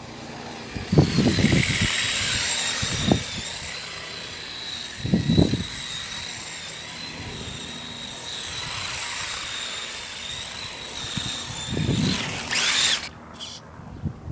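Radio-controlled car driving, its motor giving a steady high whine that wavers slightly in pitch. Short rough bursts of noise come about one, three, five and twelve seconds in.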